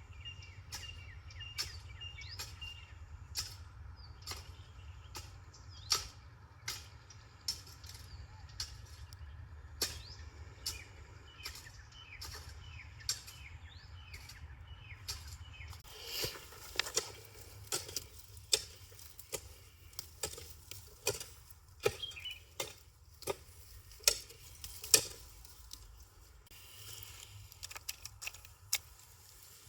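Outdoor rural sound: irregular sharp clicks and taps with birds chirping now and then. The taps come thicker and louder in the second half.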